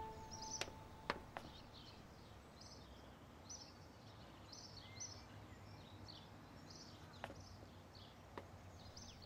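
Faint birds chirping in short, repeated calls over quiet outdoor ambience, with a few faint clicks.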